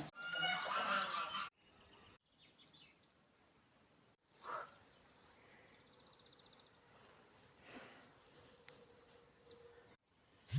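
Faint outdoor rural ambience with scattered short bird chirps and a brief buzzy trill. A short pitched call sounds in the first second and a half.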